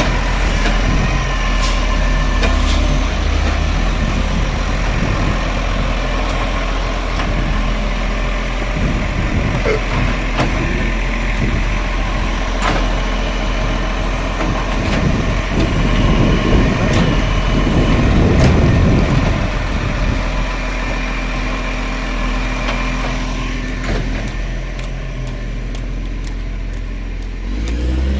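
Garbage truck engine running steadily at close range, with a louder, noisier stretch about two-thirds of the way through and a few sharp clicks.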